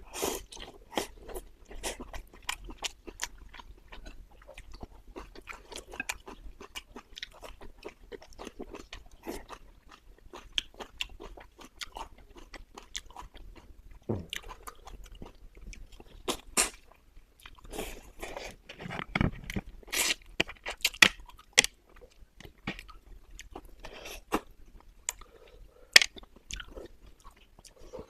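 Close-miked eating: chewing and biting into a home-cooked braised fish dish with dried tofu strips and green peppers, with many small crunches and wet clicks. A few louder bites come about two-thirds of the way in.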